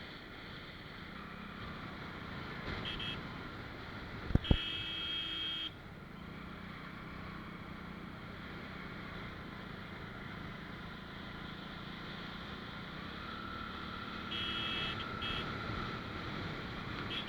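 Motorcycle ride: steady engine hum and road noise, with brief high-pitched beeps around three seconds in, again from about four and a half seconds to almost six, and near the end. There is a sharp knock about four seconds in.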